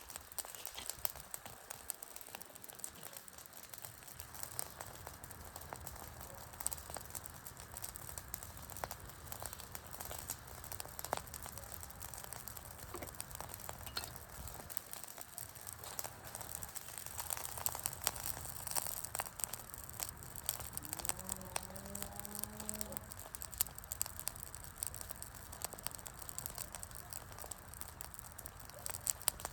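Wood campfire burning, crackling and popping with sharp, irregular snaps over a soft steady hiss. About three quarters of the way through, a short rising, wavering pitched sound cuts in briefly.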